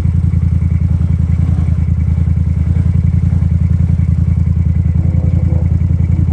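Off-road vehicle engine running at a steady speed, a low, even, rapidly pulsing drone with no revving.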